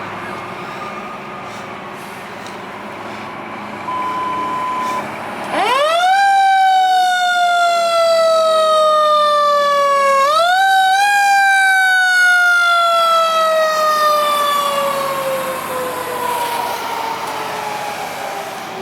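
Fire truck's mechanical siren winding up quickly to a high wail, sliding slowly down, winding up again, then coasting down and fading over passing traffic. A short steady tone sounds just before the siren starts.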